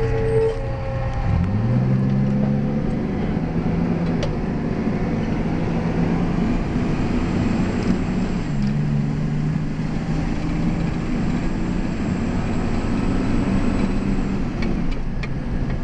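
Fire engine's diesel engine heard from inside the cab, rising in pitch as it speeds up about a second in and then running steadily. Its pitch drops with a gear change about halfway through, under a steady road and cab noise.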